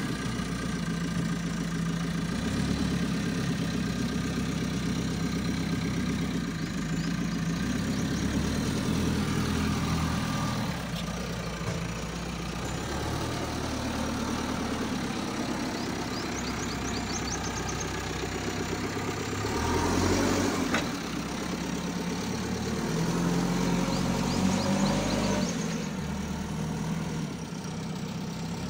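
JCB 3CX backhoe loader's diesel engine running, its revs rising and falling through the working cycle, with a single sharp knock about twenty seconds in.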